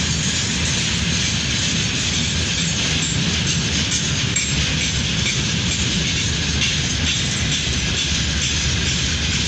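Freight train wagons rolling past on the rails, a steady rumble with continuous wheel and rail noise.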